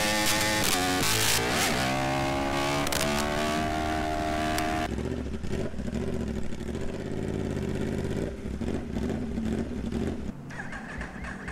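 Yamaha R1M's crossplane inline-four motorcycle engine at high revs under acceleration, its pitch dipping briefly and climbing again twice. About five seconds in it drops abruptly to a quieter, lower rumble.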